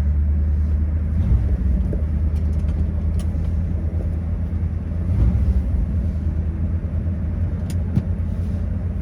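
1957 Ford Thunderbird's 312 Y-block V8 idling steadily just after starting, a deep even rumble with a couple of slight swells.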